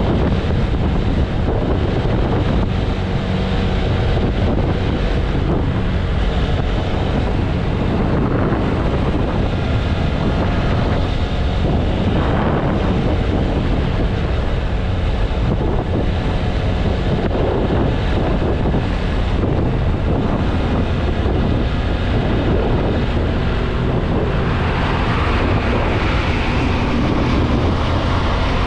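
Strong wind buffeting the microphone of a motorcycle at highway speed, over the steady running of the TVS Apache RTR 160 4V's single-cylinder engine. Near the end a higher hiss swells for a few seconds.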